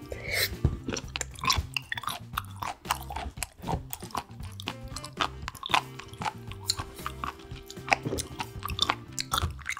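Close-miked chewing and crunching of seafood, many crisp bites in irregular quick succession, over background music with steady low held tones.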